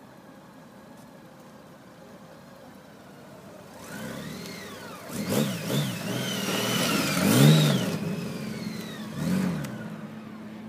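Honda Gold Wing motorcycle engine, faint at first, then revving up and down in several short blips as the bike comes close through a tight slow-speed U-turn. It is loudest a little past the middle, then fades as the bike rides away.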